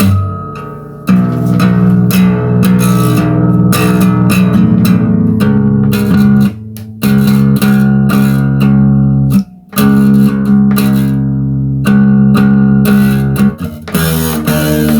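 Instrumental break of a song: guitar playing over a bass line, with short pauses about a second in and again around six and a half and nine and a half seconds in.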